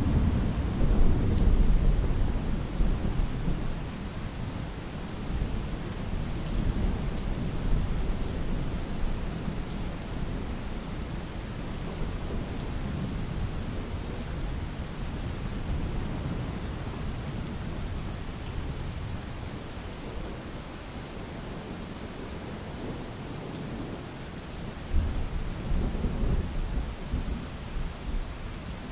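Steady rain falling with rolls of thunder: a long low rumble at the start that slowly fades, and another rumble near the end.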